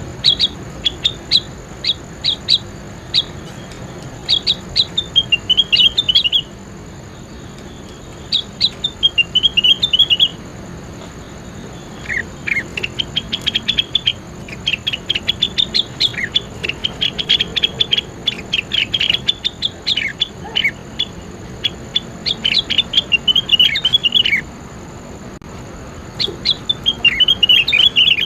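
A leafbird (cucak wilis) singing in phrases of rapid, sharp chirps, many running down into falling trills, with short pauses between phrases. A faint steady high tone runs underneath.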